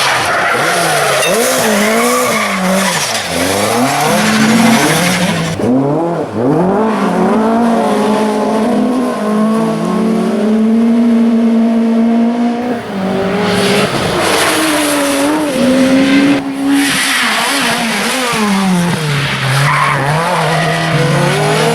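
A rally car's engine revving hard, its pitch climbing and dropping again and again through gear changes and throttle lifts. Loud rushing noise goes with it for the first few seconds and again in the second half, with a steadier, quieter stretch of engine between.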